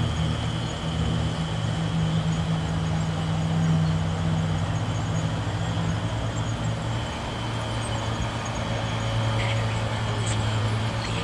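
Bulldozer's diesel engine running steadily under load, its note dropping to a lower pitch about halfway through.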